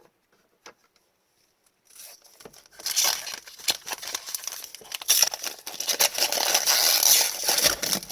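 Foil wrapper of an Upper Deck hockey card pack crinkling and tearing open. A few faint clicks come first, then about two seconds in a dense crackling rustle starts and runs on until it stops near the end.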